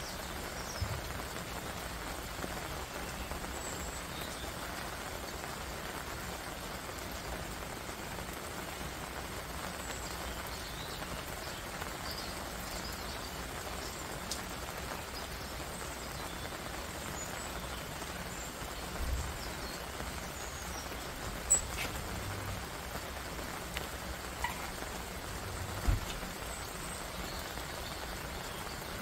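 Steady rain falling on dense leaves, an even hiss. A few louder single drops or taps stand out, the sharpest about two-thirds of the way through and another near the end.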